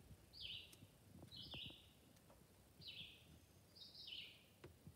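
Faint bird calls: a short high note stepping down in pitch, repeated four times about once a second, with a few faint clicks beneath.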